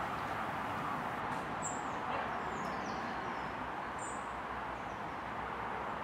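Small birds chirping: two short high calls about two seconds apart, with fainter calls between, over a steady background hiss.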